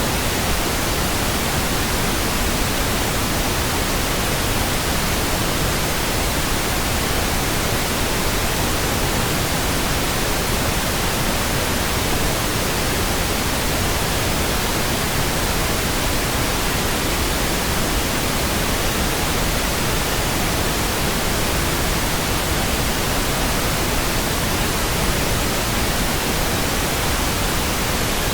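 Steady, unchanging pink noise: an even hiss spread across low and high pitches, with no events or changes.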